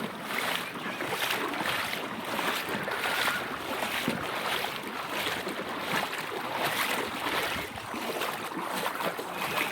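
Water splashing and small waves lapping, with wind blowing across the microphone.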